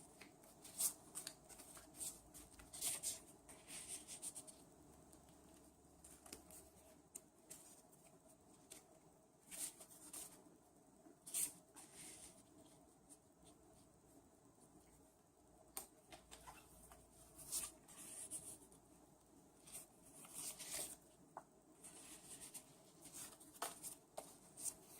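Faint, intermittent rustling and light ticks of paper and cardstock pieces being handled and slid into a paper pocket.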